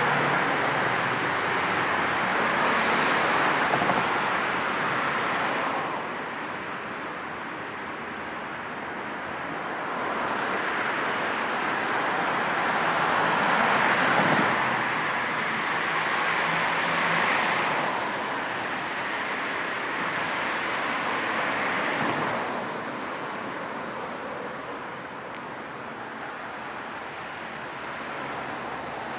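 City road traffic: a steady wash of car tyre and engine noise, swelling as vehicles pass, loudest near the start and about halfway through, then easing off.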